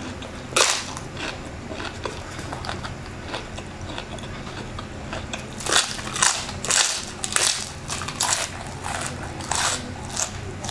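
Super crispy deep-fried chicken skin bitten and chewed close to the microphone: a sharp crunch of the bite about half a second in, lighter crunching after, then a run of loud crunches from about six seconds on.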